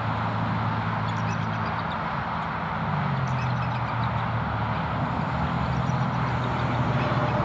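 Steady low hum of motor-vehicle engines, with a slight change in pitch about two to three seconds in. Faint short high bird calls come through in the first half.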